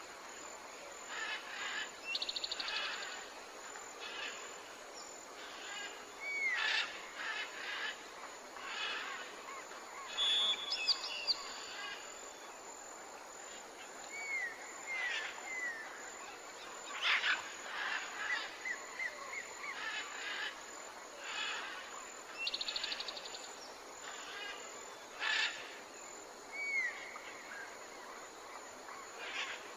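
Wild birds calling over a steady background hiss: a mix of short, downward-curving chirps, fast trills and brief whistles. The same sequence of calls comes round again after about twenty seconds, as if the soundscape is looped.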